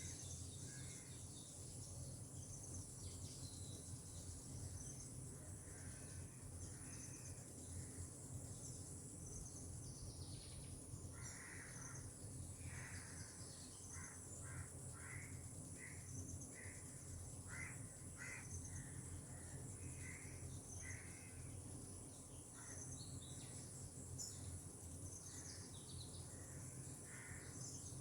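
Outdoor tropical ambience: birds calling in runs of short repeated notes, thickest in the middle. Behind them is a steady high insect drone and a low steady rumble.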